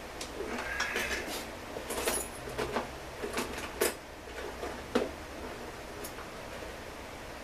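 Metal tools and small chainsaw engine parts clinking and knocking during reassembly: a quick run of sharp clicks over the first five seconds, the loudest about five seconds in.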